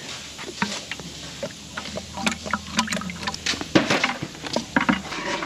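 Irregular clicks and knocks of a hand-pump bucket of transmission fluid and its hose being handled and set into the fill hole, with some liquid splashing.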